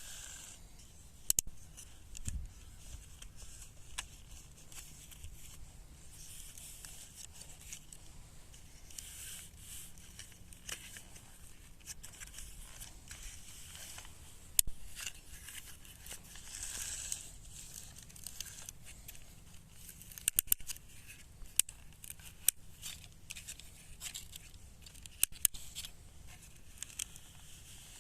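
Scattered sharp clicks and soft scraping and rustling, like small objects being handled, with a cluster of clicks in the second half.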